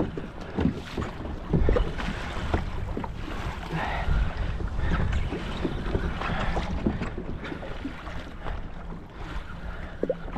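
Wind buffeting the microphone and water sloshing against a kayak, with scattered irregular knocks and clicks.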